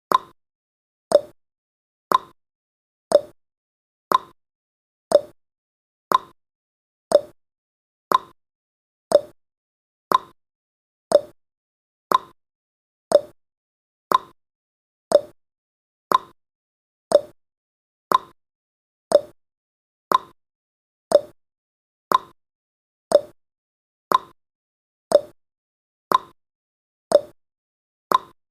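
Timer ticking sound effect: a short, crisp tick once every second, steady and evenly spaced.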